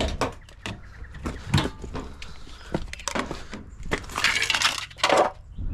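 Knocks, clicks and scraping as a plastic bottom piece is pried and pulled out of a dishwasher, with a longer scraping rasp about four seconds in.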